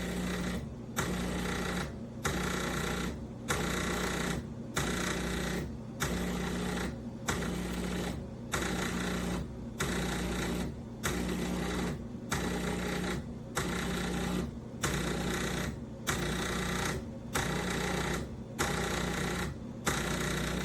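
Café Affetto automatic espresso machine running in short, regular pulses, each lasting about a second and separated by a brief silence, a little less than once a second.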